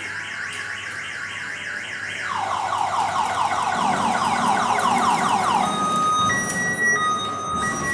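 Electronic alarm siren cycling through its tones: rapid repeating chirps, then a falling whoop repeated about four times a second, then a high-low two-tone beep from about six seconds in.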